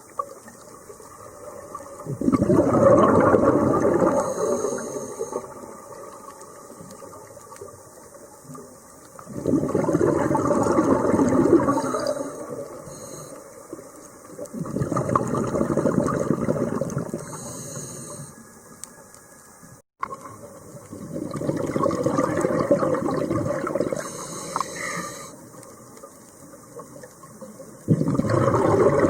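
Scuba diver breathing through a regulator underwater: a bubbling rush of exhaled air about every six to seven seconds, with quieter hiss between breaths.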